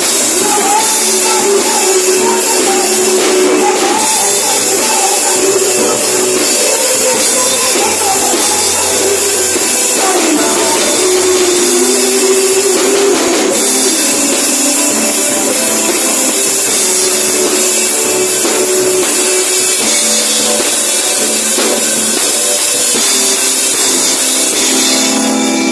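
Worship band playing, with drums and tambourine over a moving melody line; the music runs on steadily at full level.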